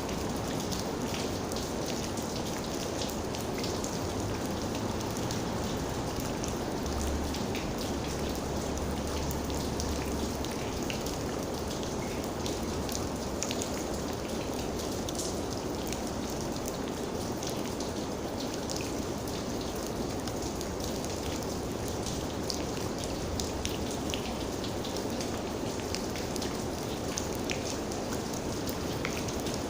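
Steady rain, with many individual raindrops pattering on surfaces. A low rumble sounds for a few seconds about seven seconds in.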